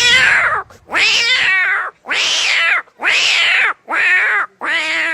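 A person imitating fighting cats by voice: a string of six loud cat yowls, about one a second, each rising and then falling in pitch.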